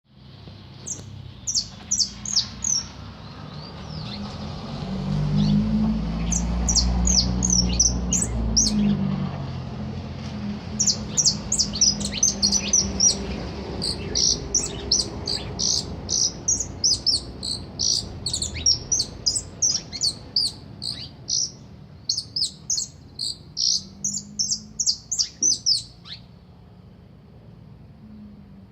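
A songbird singing runs of short, high, downslurred notes, several a second, with brief pauses between runs. A low rumble swells and fades about five to ten seconds in.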